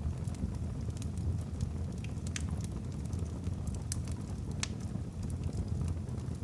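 Wood fire burning in a fireplace: a steady low rumble of flames with scattered sharp crackles and pops from the burning logs, a few louder pops in the middle.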